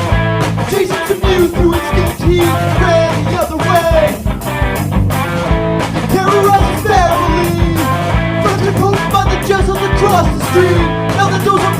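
Punk/indie rock band recording: drums, electric guitars and bass playing, with sung vocal lines.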